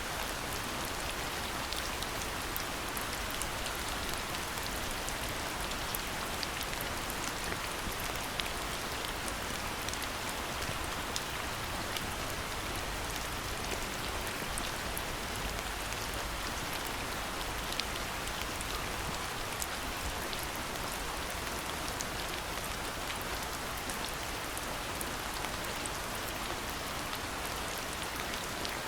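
Steady rain falling, a continuous hiss with many small drop patters and ticks on hard surfaces.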